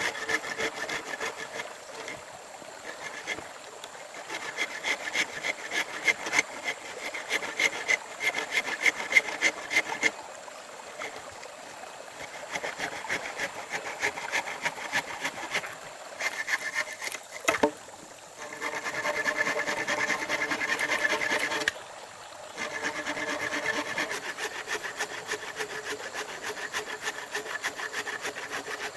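Hand saw cutting through wood in quick back-and-forth strokes, with a couple of short pauses and one sharp knock about two-thirds of the way through.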